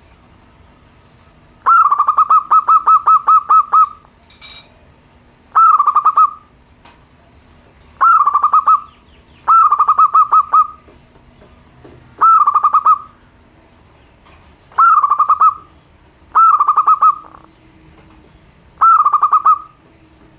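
Zebra dove (perkutut) cooing: eight phrases of rapid staccato notes, the first and longest about two seconds, the rest shorter, repeating about every two seconds.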